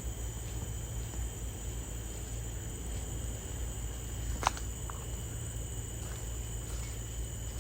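Steady, high-pitched drone of forest insects, with a single sharp click about four and a half seconds in.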